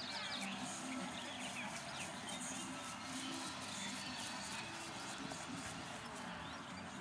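Small birds chirping intermittently over a faint murmur of distant voices.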